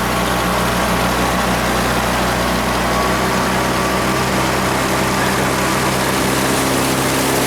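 Boat engine idling with a steady low hum; its note changes a little about three seconds in.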